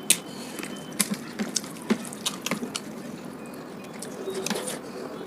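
Wet eating sounds from a meal of masala egg curry and rice: a string of sharp, moist clicks and smacks over the first few seconds, then a longer wet rustle near the end.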